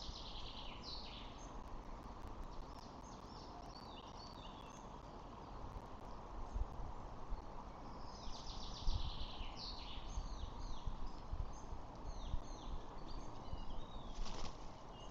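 Birds calling in repeated bouts of quick high chirps over a steady outdoor hiss, with low rumbling bumps, as from wind on the microphone, growing from about halfway through.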